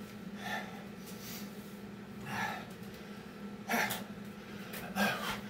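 A man breathing hard from the exertion of Navy SEAL burpees: forceful, noisy breaths about every second, the last two the loudest.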